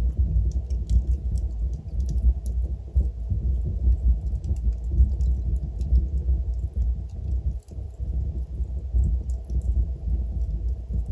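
Wood fire burning in a fireplace: a steady low rumble of flames with scattered sharp crackles and pops from the burning logs. The rumble briefly drops away for a moment a little past the middle.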